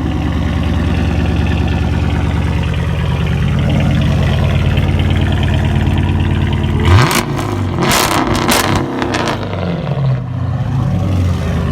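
2014 Dodge Charger's engine running at a steady idle just after a cold start. About seven seconds in it is revved sharply a few times in quick succession, then drops back to idle.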